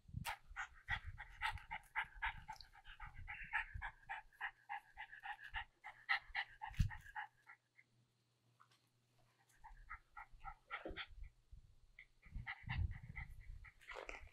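Shiba Inu dog panting, with a fast string of short high-pitched sounds that stops about halfway through and starts again a couple of seconds later.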